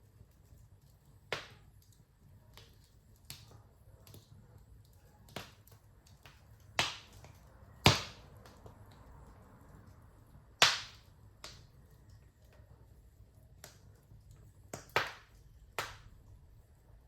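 Wood fire crackling: about a dozen irregular sharp pops and snaps, the loudest about eight and eleven seconds in, over a faint steady low rumble.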